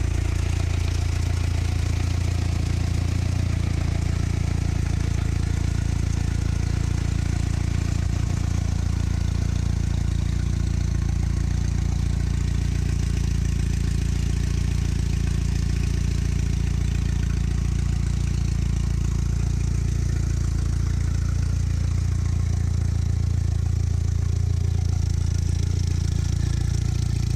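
The 1953 Willys stake truck's engine idling steadily.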